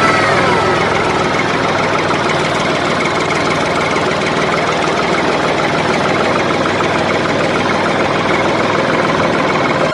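Engine running steadily, with a few falling tones in the first second.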